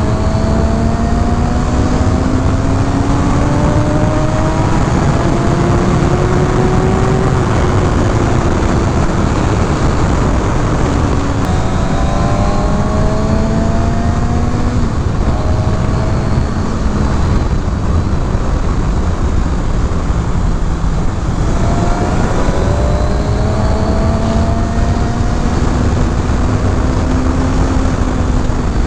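Kawasaki Ninja ZX-6R's inline-four engine pulling through the revs, its pitch climbing slowly and then dropping back three times, under a heavy steady rush of wind and road noise.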